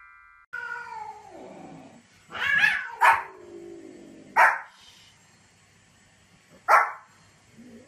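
Small white spitz-type dog barking in short, sharp single barks, about four of them spaced out over several seconds, after a drawn-out falling cry near the start.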